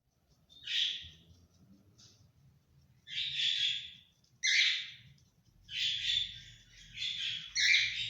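Parrots squawking: a run of about six harsh, raspy calls, each half a second to a second long, coming in quick succession after the first.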